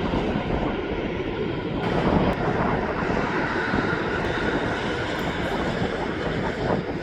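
Jet airliner engine noise: a steady rushing sound with no break, a faint thin whine showing through it in the middle.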